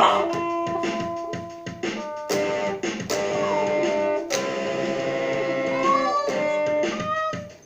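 Guitar being played: plucked notes and chords ringing out, with a couple of sliding pitches about halfway through and again near the end.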